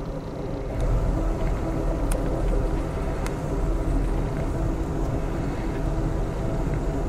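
Passenger train running, heard from inside the car: a steady rumble of wheels on rail with a low hum, growing a little louder about a second in, and a few sharp clicks.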